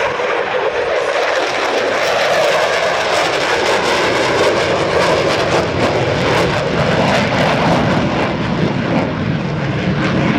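F-15E Strike Eagle jet flying by, its twin turbofan engines producing a loud, continuous, crackling jet roar. The sound sinks in pitch and grows deeper as the aircraft passes.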